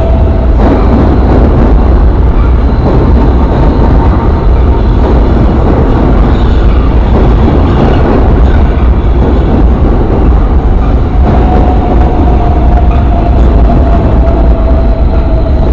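New York City subway train running past the platform: a loud, steady rumble and clatter of steel wheels on the rails, with a thin whine over it at the start and again from about eleven seconds in.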